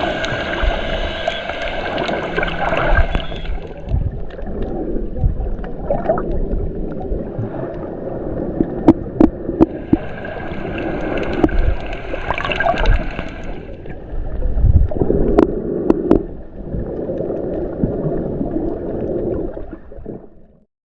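Seawater gurgling and sloshing over the camera's microphone, with a few sharp clicks, fading out near the end.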